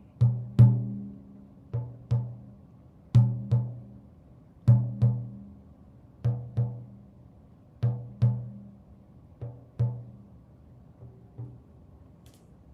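A hand drum beating a slow, steady pattern of paired strokes, two quick beats about every second and a half. It carries on alone after the chant and grows softer over the last few beats.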